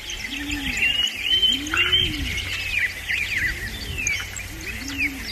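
A chorus of songbirds chirping and twittering in quick, high notes, with low rising-and-falling cooing calls three or four times.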